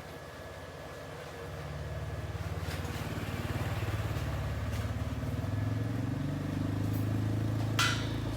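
An engine running with a low, even rumble that grows louder over the first few seconds and then holds, with a sharp click near the end.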